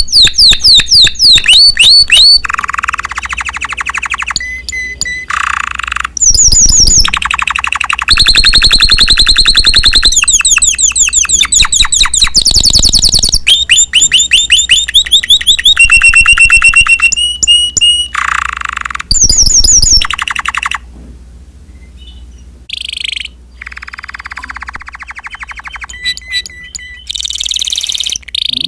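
Spanish Timbrado canary singing loudly in fast rolling trills and runs of rapidly repeated notes, phrase after phrase with short breaks, going quieter for a few seconds about two-thirds of the way through.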